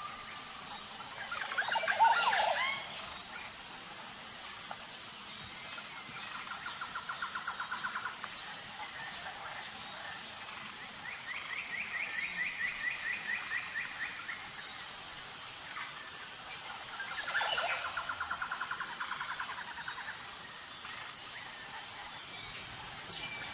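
Wild birds calling in a natural soundscape: sweeping chirps about two seconds in and again near the end, and several rapid trills in between, over a steady high pulsing insect chirr.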